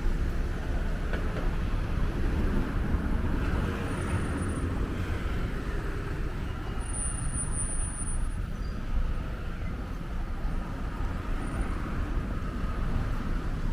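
City street ambience: steady road-traffic noise, with a low rumble of wind on the microphone.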